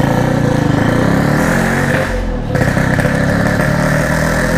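Yamaha RX-King's 135cc two-stroke single-cylinder engine running through a standard-style packed exhaust, the note shifting briefly about two seconds in.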